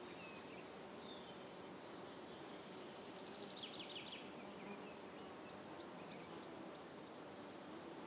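Faint outdoor ambience: a steady hiss with small birds calling. There is a short rapid trill about three and a half seconds in, then a run of quick high chirps, about four a second, through the second half.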